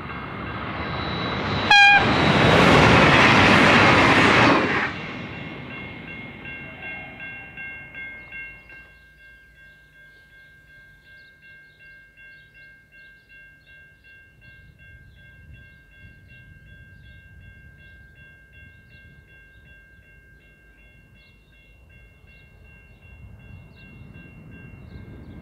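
V/Line VLocity diesel multiple unit passing close at speed: a loud rush of engine and wheel noise about two seconds in, with a brief sharp spike as it arrives, fading away over the next few seconds. Then, much quieter, a Clyde/EMD diesel-electric locomotive approaching from a distance, growing louder near the end, with a thin steady high whine.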